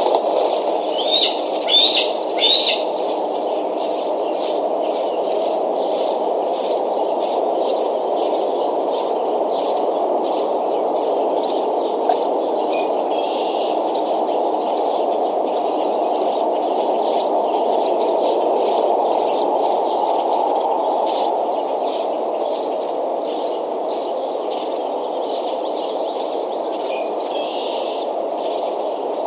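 Bird chirping at the nest: three quick, loud upward chirps in the first few seconds, then fainter scattered chirps, over a steady low rushing background.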